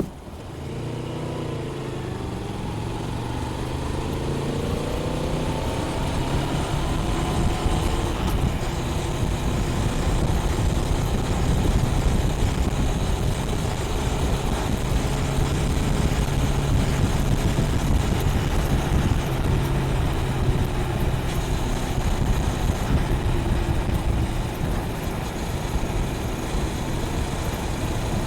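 Honda Rebel 500's 471 cc parallel-twin running through its stock exhaust, revving up in several rising sweeps as it accelerates over the first few seconds, then holding a steady drone at cruising speed, with wind rushing over the microphone.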